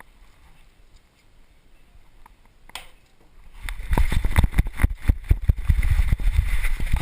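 Knocking and rubbing noise on a dog-worn GoPro: a loud low rumble with a quick, uneven run of knocks starts about halfway in and lasts a few seconds.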